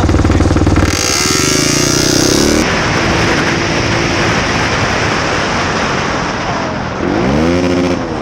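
Motorcycle engine running steadily, then revving up about a second in as the bike pulls away, with a rushing noise like wind over the microphone. Near the end the engine revs up and falls back once.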